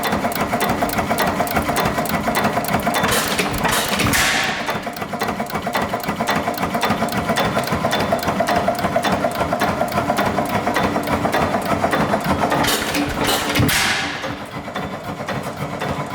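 Dempster 8 HP hit-and-miss engine running, its mechanism keeping up a fast, even clatter. Two louder surges come about nine seconds apart, near four and thirteen seconds in, and the sound drops a little after the second.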